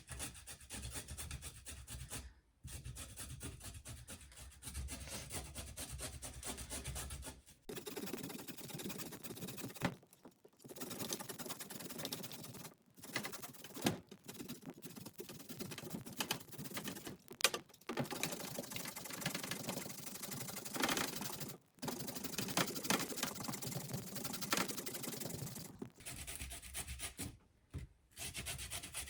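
A carrot being grated by hand on a kitchen grater: fast, scratchy rasping strokes in long runs, broken by brief pauses.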